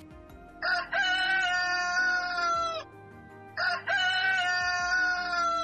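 A rooster crowing twice, each crow a short opening note followed by a long drawn-out call of about two seconds.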